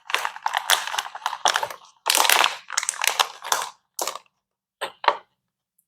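Plastic packaging crinkling and rustling in quick, irregular bursts as bed-frame parts and screws are handled, with two short clicks near the end.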